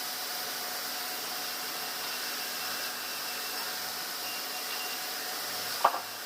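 Steady hissing noise of running machinery, with one sharp knock that rings briefly near the end.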